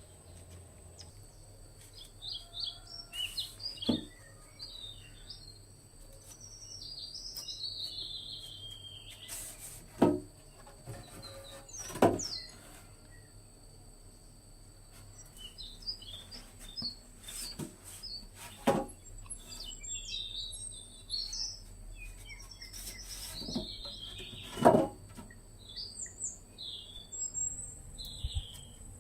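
Forest birds chirping and calling in short, high phrases over a steady high-pitched hum. About half a dozen sharp knocks break in between, the loudest about ten, twelve and twenty-five seconds in.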